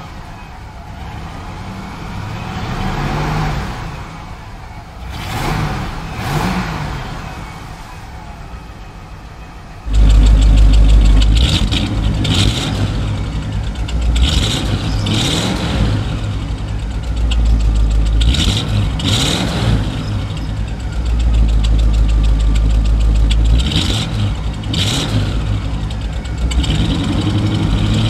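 1957 Cadillac Series 62's 365 V8 idling with a burble and being revved several times, heard first from inside the cabin. About ten seconds in, the sound switches to the exhaust at the rear bumper, much louder and deeper, with a run of rev blips over the idle.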